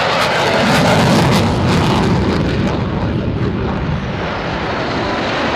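An aircraft flying past with loud engine noise, loudest about a second in and then slowly fading.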